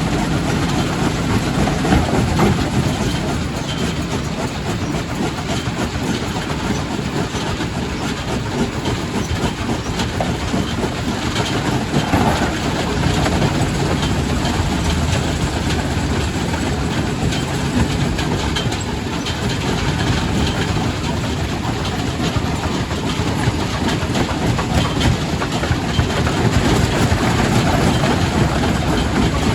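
Quarry primary rock crusher running and crushing stone: a loud, steady heavy rumble with rock clattering and knocking irregularly throughout.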